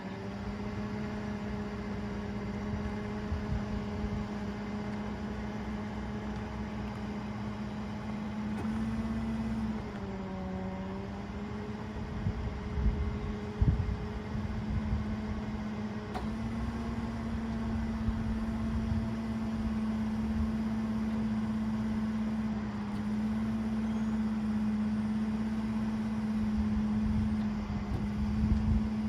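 A bucket truck running with a steady humming whine. The pitch sags briefly about ten seconds in, as if under load, and there are a couple of light knocks a few seconds later.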